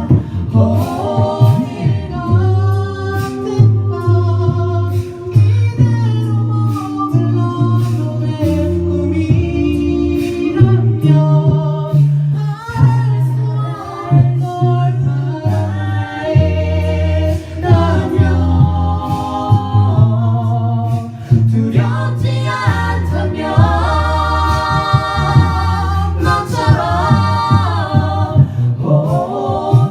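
A cappella vocal group singing a ballad in close harmony, with a low sustained bass voice under the lead and backing parts.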